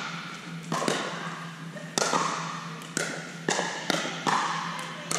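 Pickleball paddles striking a hard plastic pickleball in a rally, a quick series of sharp pops, several with a short hollow ring, echoing in a large indoor hall.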